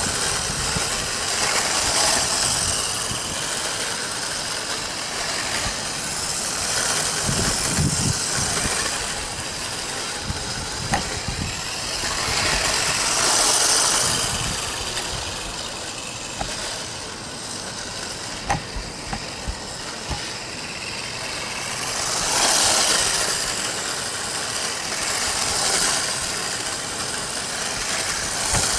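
Electric motor and tyres of a 1/16-scale RC truck running as it drives, the noise swelling several times as it speeds up, with a few sharp clicks.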